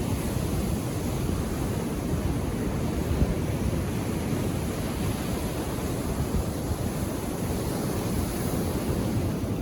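Ocean surf washing on the shore as one steady, even rush of noise, with no single wave breaking out above the rest.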